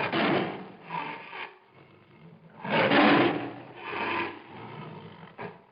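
Gray wolf growling in several harsh, noisy swells, the loudest about three seconds in.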